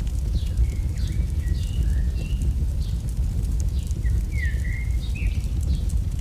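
AI-generated campfire ambience: a fire crackling with a steady low rumble underneath, while small birds chirp in short calls throughout, one clearer call about four and a half seconds in.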